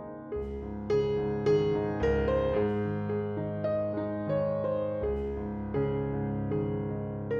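Background music: a gentle piano piece, notes struck in a slow flowing pattern over sustained low bass notes.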